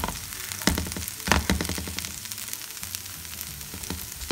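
Shredded hash browns sizzling and crackling in a frying pan, with a few sharp knocks in the first second and a half as the pan is moved on the stove.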